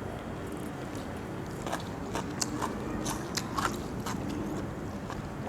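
A person chewing food close to the microphone, with scattered short crunchy clicks from the bites over a low steady background.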